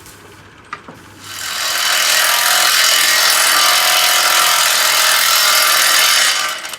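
A power tool runs on metal in a loud steady hissing whir, building up about a second in and stopping shortly before the end.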